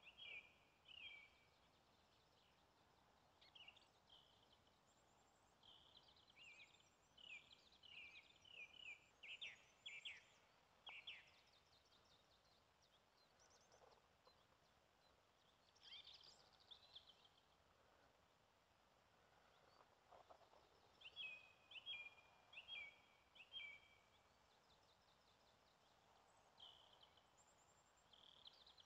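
Songbirds singing faintly: runs of short, quick repeated chirps that come and go, with quiet gaps between them.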